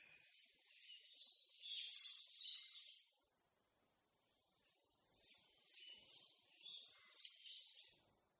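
Wild songbirds singing faintly in a forest, with high chirps and trills coming in two spells, the busier one about a second in and another about five seconds in.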